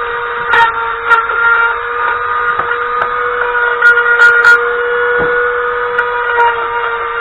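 Electric power tool's motor running at a steady high whine, with scattered clicks and scrapes as it works over the rusty metal of the steering rack.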